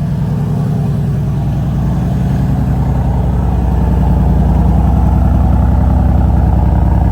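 2016 Mercedes-AMG E63 S wagon's twin-turbo 5.5-litre V8 idling just after a cold start: a steady deep engine note that grows a little louder about four seconds in.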